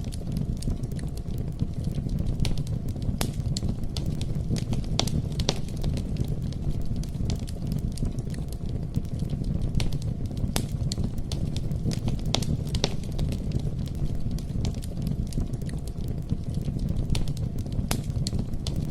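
Campfire burning, a steady low rumble with frequent irregular crackles and pops.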